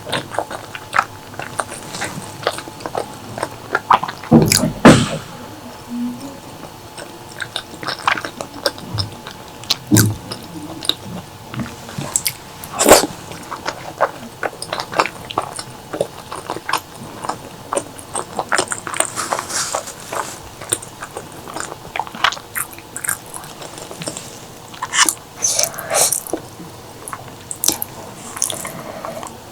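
Close-miked eating sounds: wet chewing and lip smacking as a person eats curry, with many small sharp clicks and a few louder smacks about four and thirteen seconds in.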